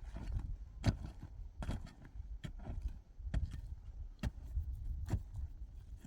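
Repeated sharp knocks at a steady pace, a little more than one a second, over a low rumble.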